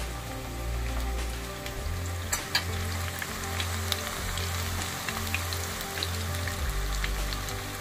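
Sliced onion and garlic frying in hot oil in a pan: a steady sizzle with scattered crackles, and a couple of louder pops about two and a half seconds in.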